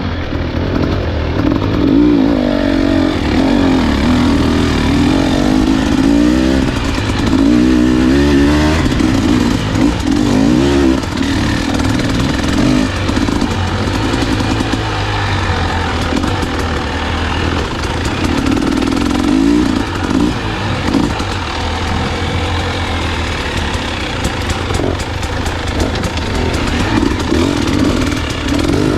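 Dirt bike engine running under load on a trail ride, its pitch rising and falling over and over as the throttle is worked on and off.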